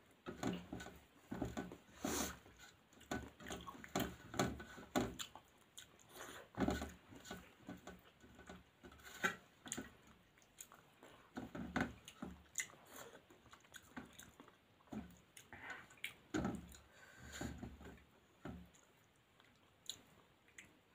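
Close-up eating sounds: a person chewing mouthfuls of rice and fish curry in irregular bursts, with fingers working the food on a steel plate. The sounds thin out near the end.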